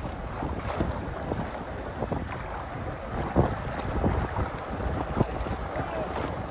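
Wind buffeting the microphone in irregular gusts over a steady rushing background.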